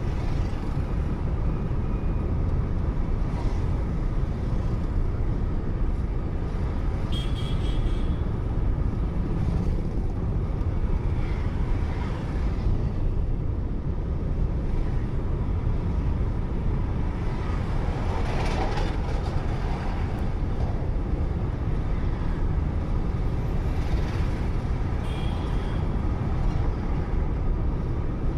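Steady road and engine noise of a car driving on a highway, picked up by a dashcam inside the car. Brief higher-pitched sounds, such as passing traffic, stand out about 7 seconds in, around 18 to 19 seconds in, and again near 25 seconds.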